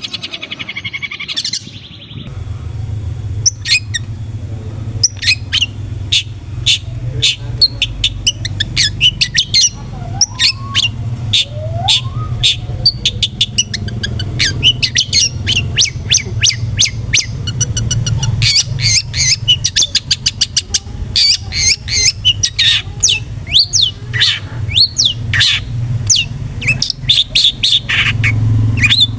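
Long-tailed shrike (cendet) calling in fast, sharp, harsh chattering notes, a dense run of quick calls over a steady low hum. It follows a short, different passage in the first two seconds.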